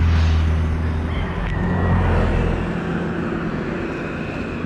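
A motor vehicle's engine rumbling close by over steady city street traffic noise. The engine note fades out after about two and a half seconds.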